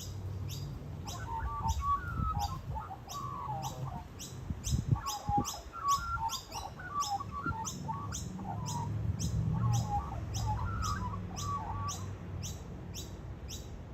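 A small bird chirping and warbling in three short runs of quick notes. Behind it is an even, rapid high ticking, about three ticks a second.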